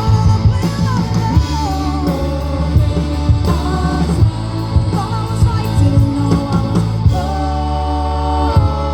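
Live rock band playing, with guitar, drums and a voice or lead line weaving a melody; about seven seconds in it settles into long held chords.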